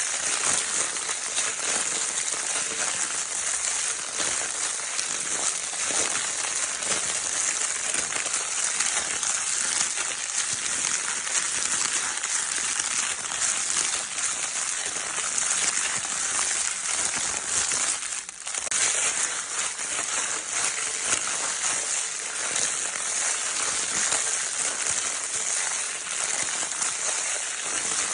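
Crinkle paper baby toy being crinkled continuously, a dense, bright, steady crackling with a brief pause about 18 seconds in.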